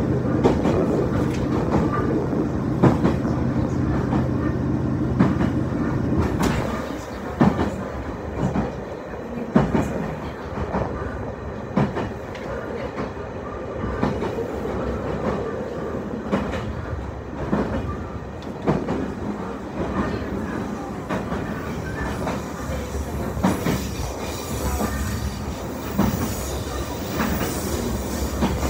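A passenger train running, heard from inside the carriage: wheels clicking over rail joints with a running rumble. A steady hum that is louder at the start drops away about six seconds in, leaving the lighter rumble and clicks of the wheels on the track.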